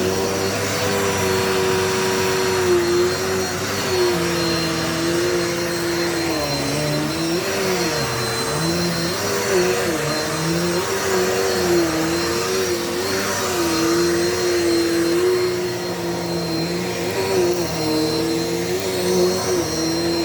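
Dirt Devil Multi-Surface vacuum cleaner running on carpet, a steady motor whine over rushing air. The pitch of the motor dips and rises again and again as the load changes, most deeply about a third of the way in.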